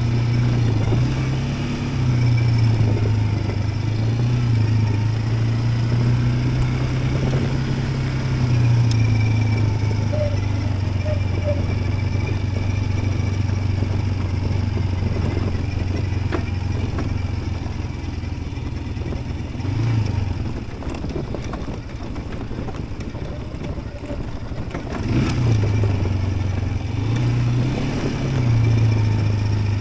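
Yuki Tract 200 ATV engine running while being ridden, its pitch shifting up and down as the throttle is opened and eased, with drops and pick-ups near two-thirds of the way through and again near the end.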